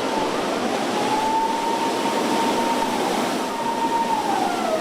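Loud, steady rushing noise of wind and water in a storm, with a high whistling tone held through it that sags slightly near the end.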